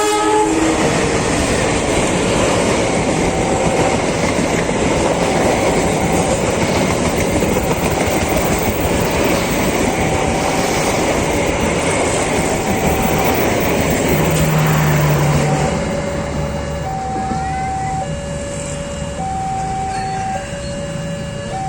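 A train passes with loud wheel-on-rail rumble, over a two-note electronic level-crossing warning signal that keeps alternating. The train noise drops away about 16 seconds in, leaving the alternating two-note signal clearer.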